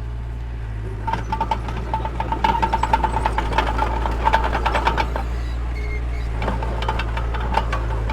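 Heavy construction machine's engine running steadily. From about a second in to about five seconds in, a burst of rapid metallic clanking and rattling rides over it.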